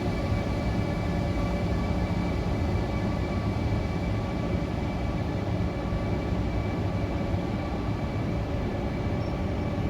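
CP Class 5600 electric locomotive running as a light engine: a steady low rumble with several steady high-pitched electrical tones over it.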